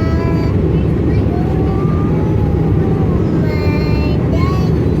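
Steady drone of an Airbus A320's cabin in flight, engine and airflow noise, with a high voice sounding a few drawn-out, wavering notes over it several times.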